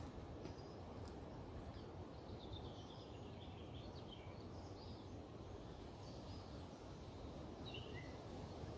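Faint songbirds chirping and singing in short scattered phrases, over a low steady outdoor background noise.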